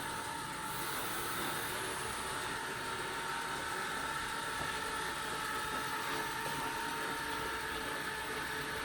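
ELARI SmartBot Lite SBT-002A robot vacuum cleaner running, its motors giving a steady whine over an even rushing noise.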